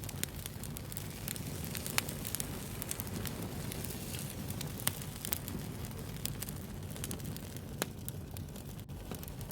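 Wood fire burning: a steady low rumble of flames with irregular sharp crackles and pops from the burning wood, a few louder pops standing out.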